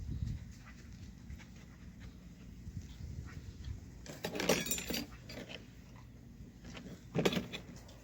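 A dog giving two short calls: one lasting about a second, about four seconds in, and a shorter one near the end.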